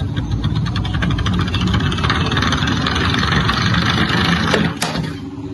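Toy car running with a rapid buzzing rattle like an engine; it stops abruptly about five seconds in.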